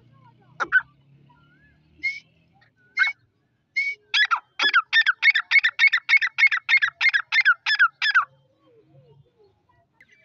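Grey francolin (teetar) calling: a few separate sharp notes, then a fast, even run of about fifteen loud notes over some four seconds that stops abruptly.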